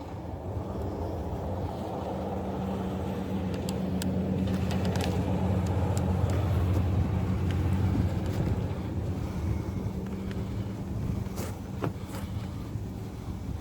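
A motor vehicle's engine running with a steady low hum that grows louder toward the middle and then fades, with a few sharp clicks over it.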